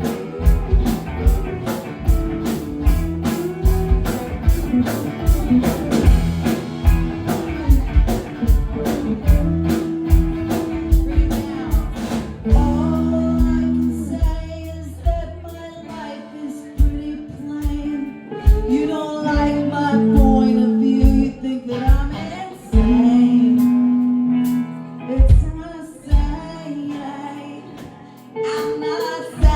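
A rock band playing a song: steady drum beat, bass and guitar, with a voice singing the melody over them.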